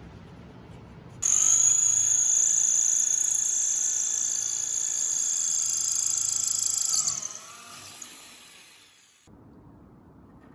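A small high-speed electric power tool starts abruptly and runs at a steady high-pitched whine for about six seconds. It is then released and spins down, its pitch falling until it stops.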